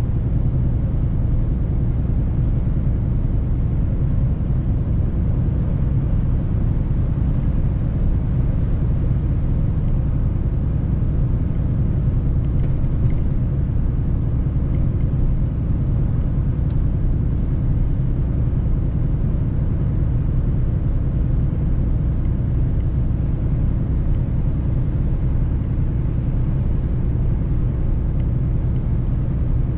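Mercedes-Benz truck driving at a steady pace: an even low engine drone with road rumble that holds without change.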